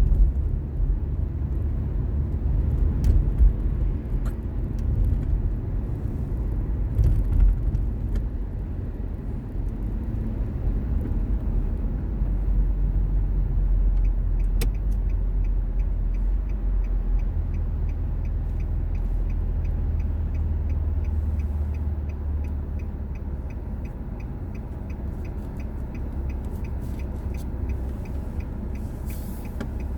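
Car driving, with steady low road and engine rumble. From about halfway in, an even ticking at roughly two clicks a second joins it: the turn-signal indicator.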